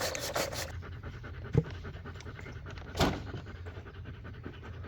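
A dog panting quickly and steadily. There is a short knock about a second and a half in, and a louder thump about three seconds in.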